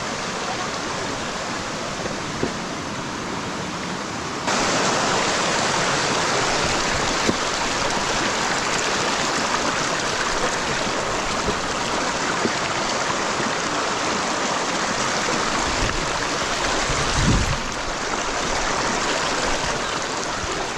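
Rushing water of a waterfall and stream, a steady noise that jumps abruptly louder about four and a half seconds in. A brief low rumble comes near the end.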